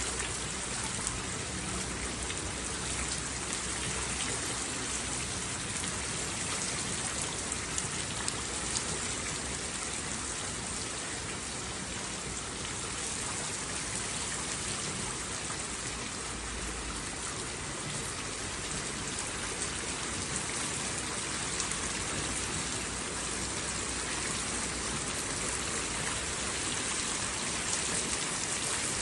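Steady rain falling on a surface, a dense even hiss with scattered drop ticks.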